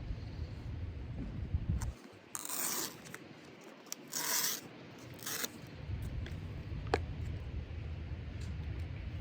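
Three short scraping, rustling sounds about a second apart, with a sharp click a little later, over a low wind rumble that drops away for a few seconds in the middle.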